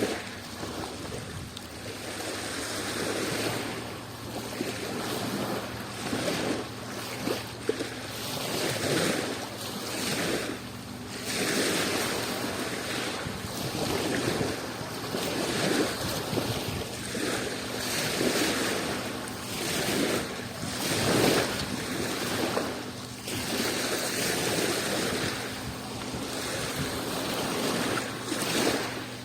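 Adriatic Sea waves washing in, surging and easing every two to three seconds, with a faint steady low hum underneath.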